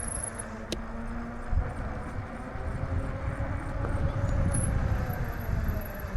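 Rumbling wind and road noise while riding a bike along a paved trail, with a faint high steady whine in the second half.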